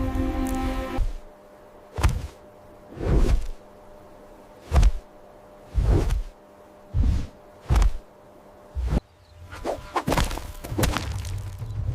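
Dramatic sound-effect hits: a series of separate thuds and whooshes about a second apart after the music cuts off, growing denser into a low rumble near the end.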